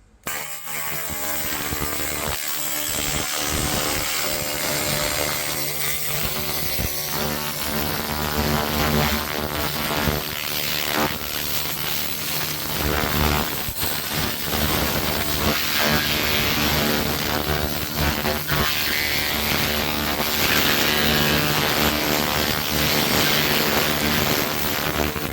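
A 300 W pulsed laser cleaning machine running on engine parts: a steady machine hum under a dense hiss.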